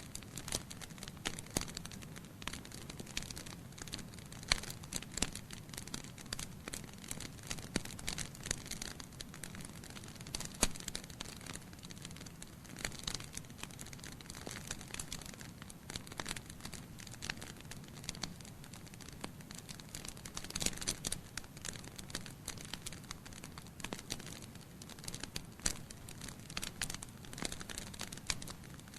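Wood fire of burning logs in a fireplace crackling: frequent irregular sharp pops and snaps over a steady low hiss of the flames.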